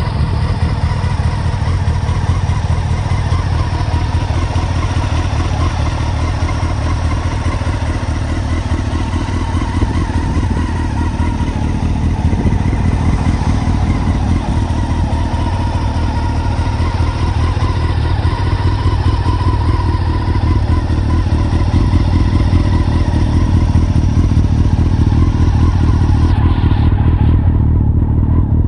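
Honda CBR954RR inline-four engine running steadily through a full titanium aftermarket exhaust system, with a deep pulsing exhaust note.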